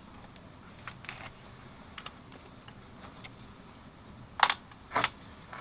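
Small screwdriver clicking and tapping against the small screws on the back of an alternator as they are undone, with two louder brief clatters near the end.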